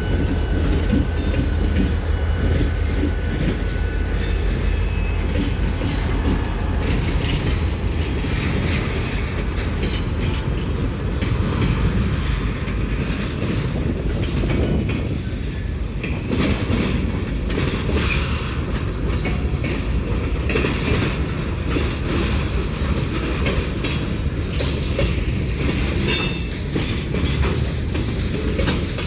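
Railcars rolling through a rail yard: a steady rumble with many clanks and knocks from the wheels and couplings, and a thin wheel squeal that fades out a few seconds in.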